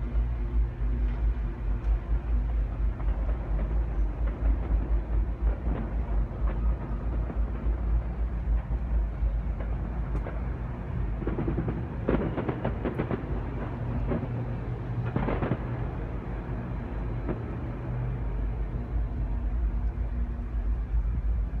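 Deep, continuous rumbling drone with a pulsing low bass and steady low hums, the 'strange sound in the sky' heard during a distant stadium rock concert. A rougher, crackly texture rises over it for a few seconds around the middle.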